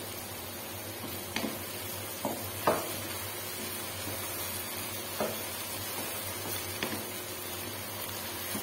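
Ridge gourd (tori) pieces frying with a steady sizzle as a wooden spoon stirs them in a non-stick wok. About six short knocks of the spoon against the pan are heard, the sharpest about two and a half seconds in.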